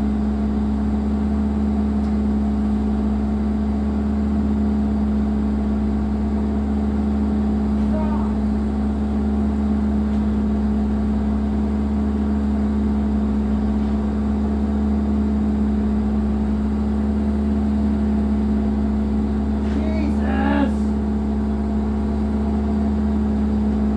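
John Deere 120 excavator's diesel engine running at a steady speed: a constant, even drone with a strong steady hum.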